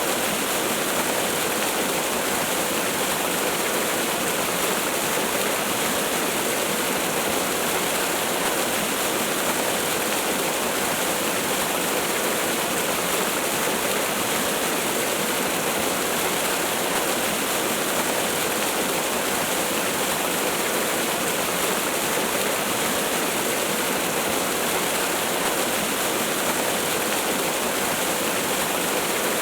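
Waterfall: water falling and rushing in a steady, even hiss with no breaks or changes, light in the bass.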